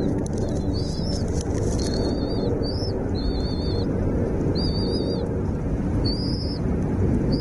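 A small bird's short, high, wavering chirps, repeated about once a second, over a steady low rumble.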